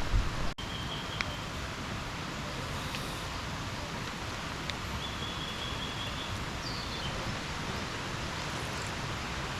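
Steady rush of heavy rain and a swollen stream. A bird gives short thin whistles about a second in and again around the middle.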